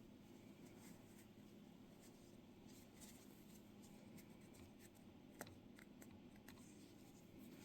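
Near silence: room tone with a few faint ticks and rustles of yarn and a crochet hook being worked by hand.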